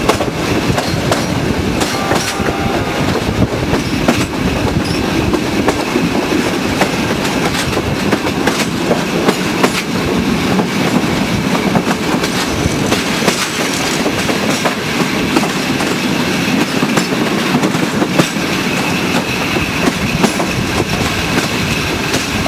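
Passenger train running along the track, heard from an open coach window: a steady rush of wheels on rail and passing air, with frequent clacks of the wheels over rail joints.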